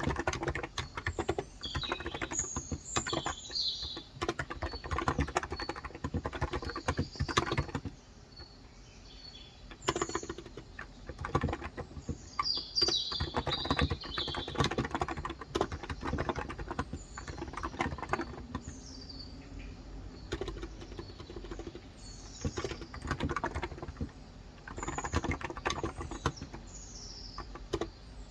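Typing on a COX Endeavor electro-capacitive (35 g) tenkeyless keyboard in quick runs of key clicks, pausing briefly about a third of the way in. Birds chirp now and then in short high calls behind the typing.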